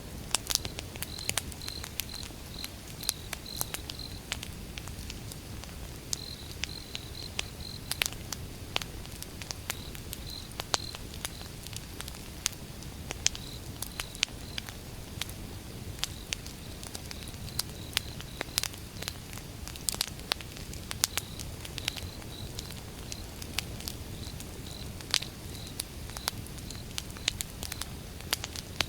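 Wood fire burning, with irregular sharp crackles and pops over a steady low rumble and hiss. A cricket chirps in short repeated pulses behind it.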